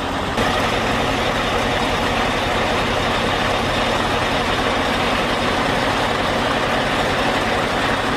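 Heavy diesel engine running steadily, with a fast, even low pulse.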